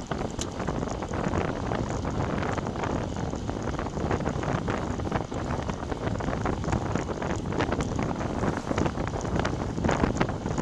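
Wind buffeting the microphone of a bike-mounted action camera during a fast ride in heavy wind: a steady, loud, gusting rumble.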